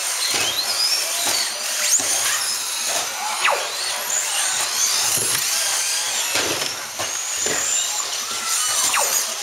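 Several RC stadium trucks racing together, their motors whining high and overlapping, each pitch rising and falling as the trucks speed up and brake.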